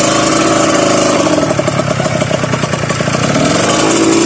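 Off-road vehicle engine running under load, its revs falling about a second and a half in to a low, pulsing beat, then climbing again near the end.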